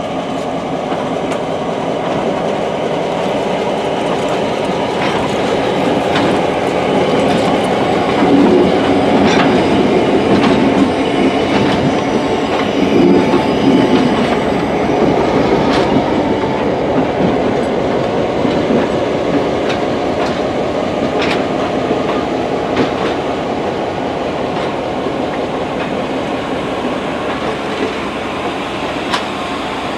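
A short train, an EMD GP38-3M diesel locomotive with two passenger cars, rolling slowly past, steel wheels clicking now and then over the rail joints. The rolling noise grows louder in the middle as the cars go by and eases off toward the end.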